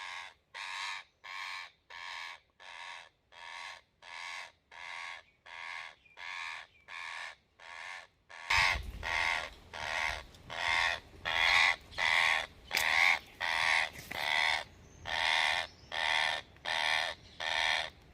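Trapped parrot giving harsh, repeated distress squawks, about three every two seconds, evenly spaced; the calls grow louder about halfway through.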